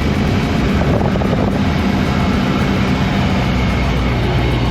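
Piston engine and propeller of a small single-engine airplane running steadily, a loud continuous drone.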